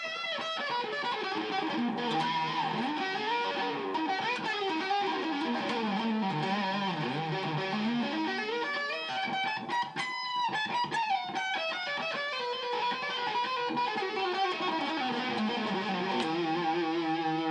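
Electric guitar played through a DIY Madbean Laserwolf pedal, a phaser, delay and overdrive in one unit: a fast run of notes moving up and down the neck, settling into a held chord near the end.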